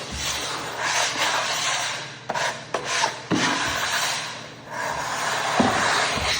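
A pad rubbing across a freshly sanded oak floor as hard wax oil is worked into the wood: a steady scrubbing hiss that breaks off briefly a few times, with a few soft knocks.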